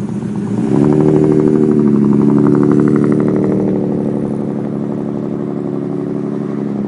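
Straight-piped BMW 533i straight-six exhaust: the engine note steps up and gets louder about a second in as throttle is applied, holds for a couple of seconds, then slowly gets quieter.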